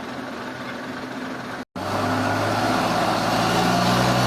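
Heavy engine running steadily. About a second and a half in, the sound cuts out briefly, then a louder, steady engine drone carries on.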